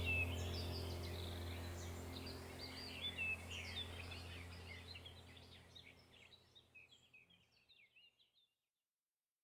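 Small songbirds chirping and twittering over a low steady hum, all fading out gradually to silence about six seconds in.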